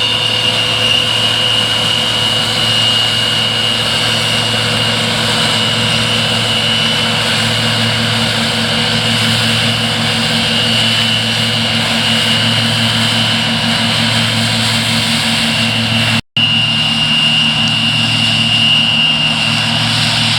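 Older New Holland tractor's diesel engine running steadily under load while pulling harrows, with a momentary break about sixteen seconds in.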